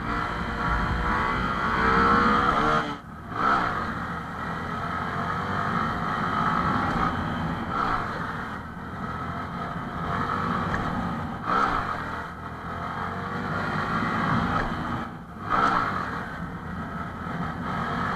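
Honda MSX125 SF's single-cylinder engine revving hard in first gear for wheelies, the sound cutting off sharply and picking up again about four times as the throttle is chopped and reopened.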